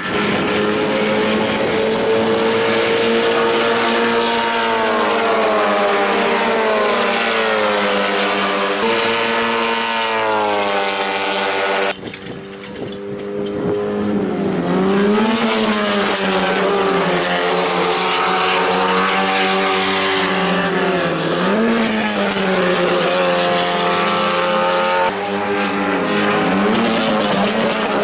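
Racing car engines running hard, the pitch climbing under throttle and dropping back at each gear change. The sound breaks off abruptly about twelve seconds in and picks up again with more up-and-down revving.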